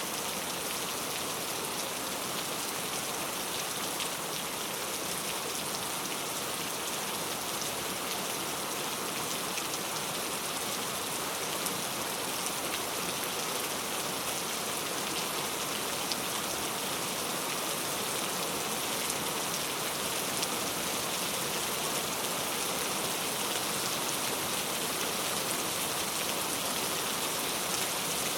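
Steady rain falling, with an even hiss and scattered drop ticks.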